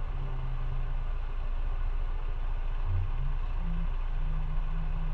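Motorcycle engine running steadily under an even hiss of road noise, its low note shifting slightly up and down.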